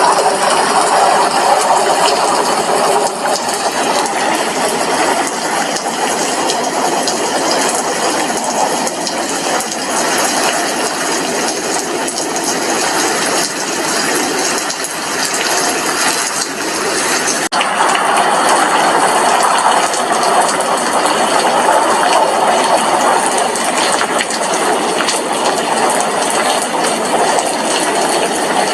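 Steady, heavy rain pattering on a glass window, a dense crackle of drops. A sudden brief break comes about two-thirds of the way through, then the rain goes on unchanged.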